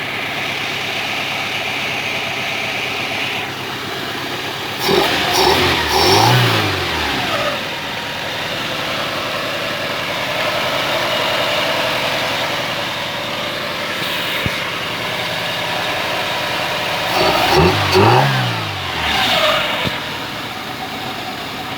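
Fiat Tempra 1.6 engine, converted to multi-point fuel injection, idling steadily and revved up and back down in short blips, once about five seconds in and again a few seconds before the end.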